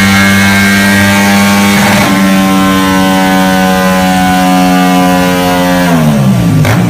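Motorcycle engine revved and held at a steady high pitch through its exhaust, with the revs dropping near the end.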